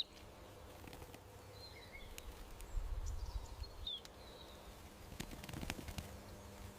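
Garden ambience with a few short, faint bird chirps, including a low rumble about halfway through and a run of faint clicks near the end.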